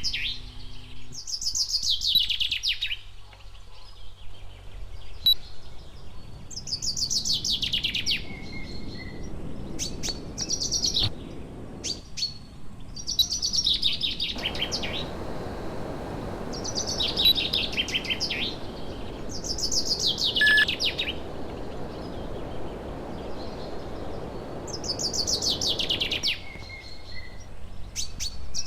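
A songbird sings the same short, fast, descending trilled phrase over and over, a few seconds apart. A steady rushing noise comes in about halfway through and stops shortly before the end.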